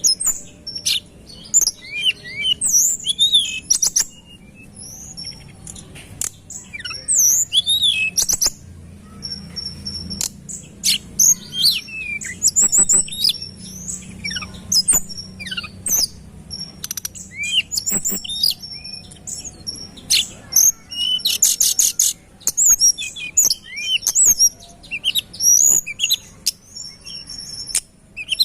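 Tledekan gunung, a small songbird, singing busily in a rapid stream of short, high, sweeping chirps, with a fast rattling trill about three-quarters of the way through.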